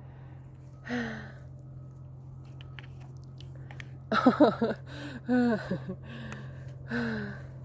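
A woman's wordless vocal sounds: short calls falling in pitch, about one second in, a quick run of them around four to five seconds in, and one more near the end, over a steady low hum.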